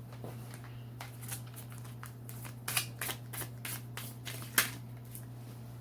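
A deck of divination cards being shuffled by hand: a quick run of card snaps and flicks, the loudest near the end, over a steady low hum.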